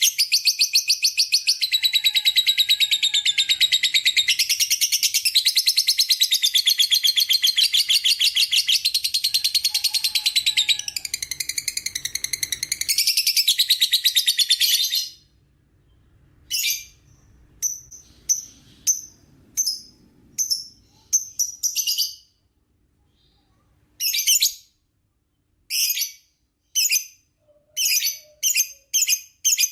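Lovebird singing its long 'ngekek' chatter: a rapid, unbroken run of high-pitched trilled chirps for about fifteen seconds. It then stops abruptly and comes back in short bursts that grow more frequent toward the end.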